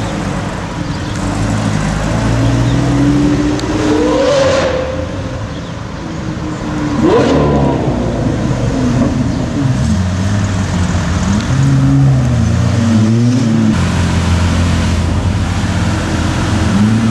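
Lamborghini Aventador's decatted V12 exhaust revving, with quick rising revs about four and seven seconds in, amid other car engines rising and falling in pitch.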